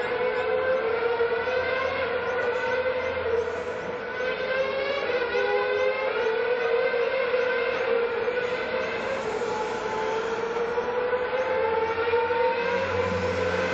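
Formula 1 cars' 2.4-litre V8 engines at high revs on the circuit, heard from afar as a continuous whine that slowly wavers up and down in pitch as the cars lap.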